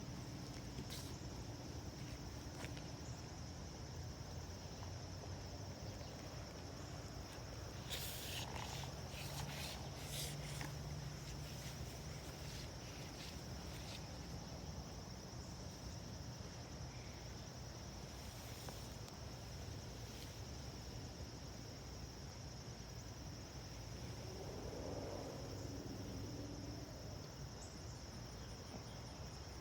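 Steady, high-pitched chorus of crickets or other insects trilling, with a low background hum and a few faint clicks about eight to ten seconds in.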